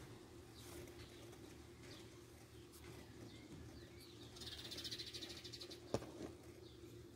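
Faint birdsong: short high chirps and a rapid trill near the middle. A single sharp click comes about six seconds in, over a low steady hum.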